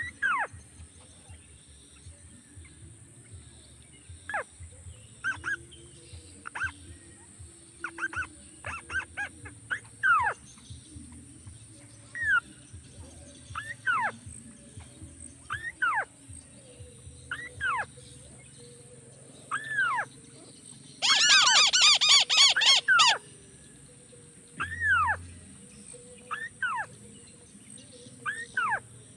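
Calls of a crake: single short notes that slur downward, repeated about every one to two seconds, with a loud rapid trill of notes about two thirds of the way through.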